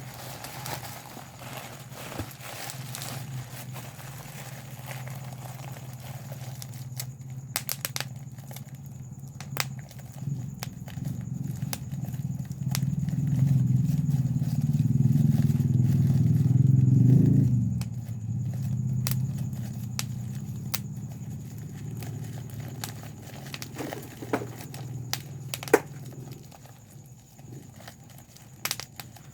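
Bubble wrap being popped: single sharp pops, scattered a second or several apart. Under them runs a low, steady noise that grows louder through the middle and then cuts off suddenly about two-thirds of the way through.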